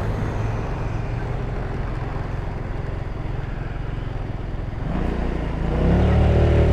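150cc GY6 scooter engine running steadily under a rush of road noise, its note rising and getting louder about five seconds in as it picks up speed.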